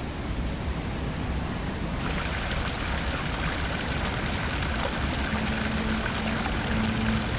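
Steady rushing of flowing water, like a stream or small waterfall. A low held music note comes in about five seconds in.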